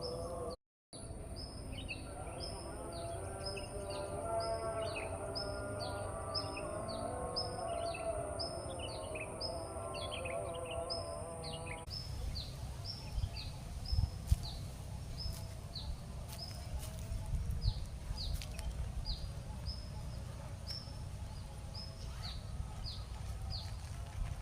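A bird repeating a short, high, downward-sweeping chirp over and over, about once or twice a second, over a low outdoor rumble. A steady high hiss and some faint pitched sounds underneath stop suddenly about halfway through.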